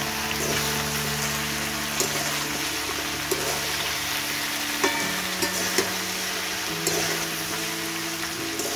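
Chopped okra and potato sizzling in an aluminium kadhai while a metal spatula stirs them. The spatula gives several sharp clacks and scrapes against the pan.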